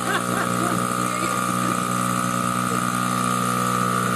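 Small petrol engine of a child's motorbike idling steadily at a constant pitch.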